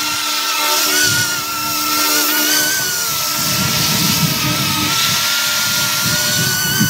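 YU XIANG F11-S RC Apache helicopter in flight, its electric motor and rotors giving a steady high-pitched whine that wavers slightly and rises a little near the end.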